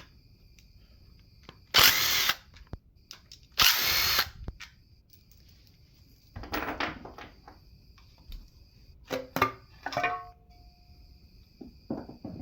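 A handheld power tool, drill or impact gun, runs in two short bursts of about half a second each, as it works fasteners on a 5.3 L LS V8 during teardown. Quieter metal knocks and clinks of parts being handled follow, with a brief ringing near the end.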